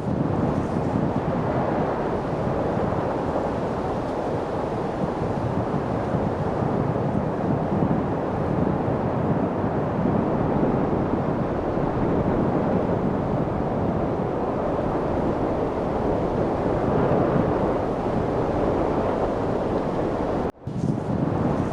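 Steady wind, an even low rushing hiss with no gusts standing out, cutting out for an instant near the end.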